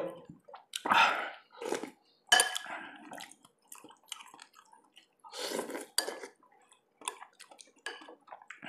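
Eating lobster soup by hand: scattered short slurps and smacks, with light clinks of a dish.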